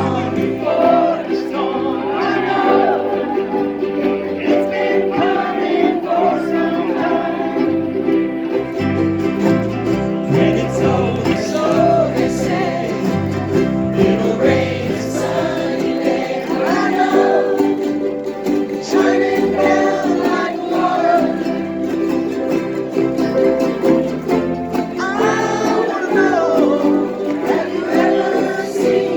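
A ukulele ensemble strumming chords together in a steady rhythm, with singing over it.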